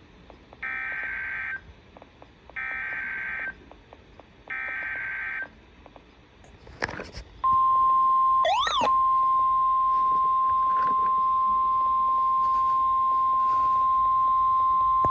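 NOAA Weather Radio alert tones: three short bursts of buzzing data tones (the SAME header) about two seconds apart. Then, from about seven and a half seconds in, a loud, steady single-pitch warning alarm tone announces a new warning.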